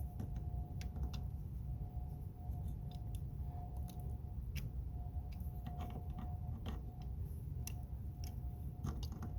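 Irregular small metallic clicks and taps of locking pliers working the clamp nut on a car battery terminal, over a steady low rumble.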